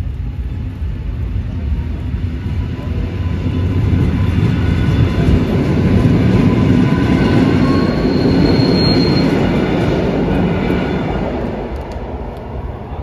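Electric passenger train passing over a level crossing. Its low rumble builds to a peak about midway and fades toward the end, with faint steady high tones above it.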